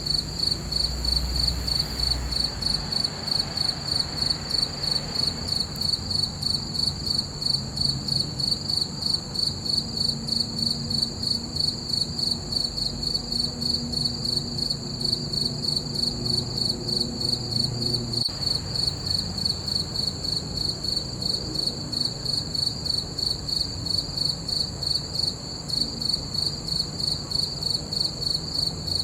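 Crickets chirping in a steady, even rhythm of several high chirps a second, over a faint low rumble.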